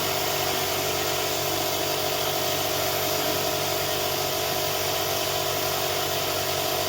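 Steady mechanical hum of a running motor, even throughout with no change in pitch.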